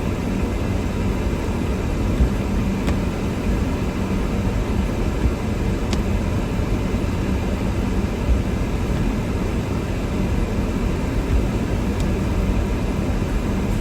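A car driving through a snowstorm, heard from inside the cabin: a steady low rumble of tyres on the snowy road, engine and wind, with a faint hum and a few faint ticks.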